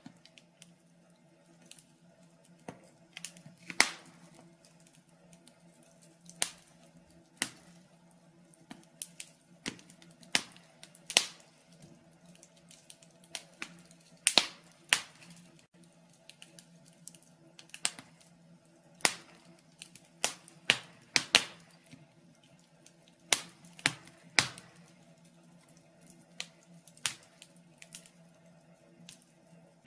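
Wood fire crackling in a fireplace: irregular sharp pops and snaps, now sparse, now in quick clusters, a few much louder than the rest, over a faint steady hum.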